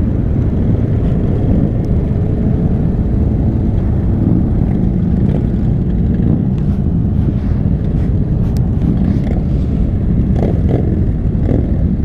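Motorcycle engines running in a group ride: a loud, steady low rumble.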